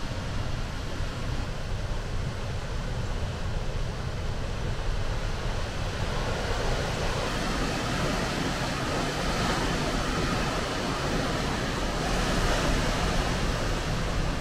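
Rainbow Falls, a waterfall on the Wailuku River, rushing steadily, filling out a little about halfway through.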